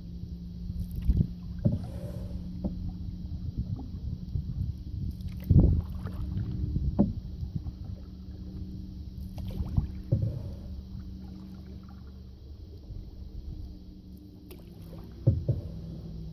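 Solo canoe on open water: paddle strokes with water splashing and a few louder thuds, at irregular intervals over a steady low rumble.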